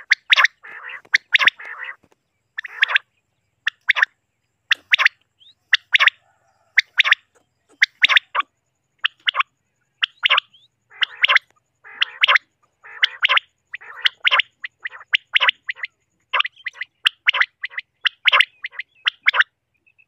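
Common quails calling: sharp, clipped notes in quick groups of two or three, about once a second, with raspy, buzzy calls between them at times.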